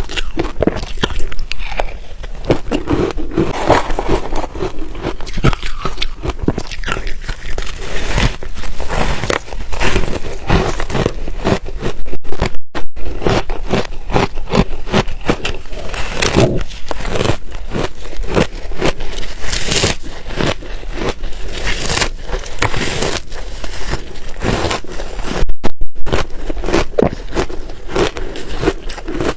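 Close-miked crunching of ice being bitten and chewed: a dense, irregular run of sharp, loud crunches and crackles, cut twice by brief gaps.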